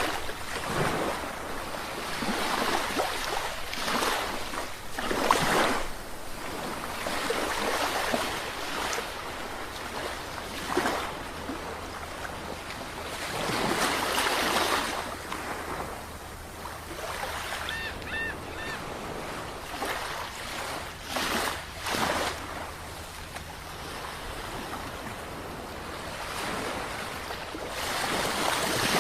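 Sea waves breaking and washing on the shore, the surf swelling and falling back every few seconds. A few faint high-pitched chirps come about two-thirds of the way in.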